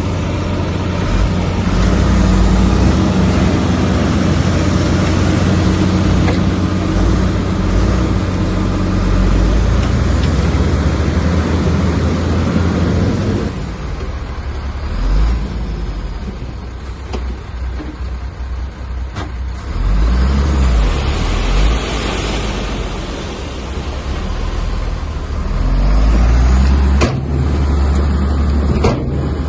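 Bulldozer's diesel engine working hard at high revs, then dropping off suddenly about halfway through to a lower, uneven running with a couple of surges in power and a few sharp knocks.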